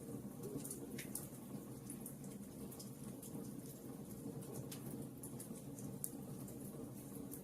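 Wood fire burning in a fireplace: a steady low rumble with irregular small crackles and pops.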